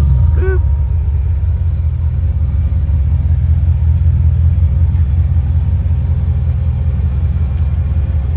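Jeep Comanche pickup's engine running low and steady as it drives slowly along a dirt trail, with one short high chirp about half a second in.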